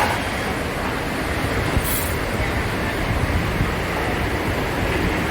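Steady rumbling wash of wind and sea on a cruise ship's open deck, with no clear single event.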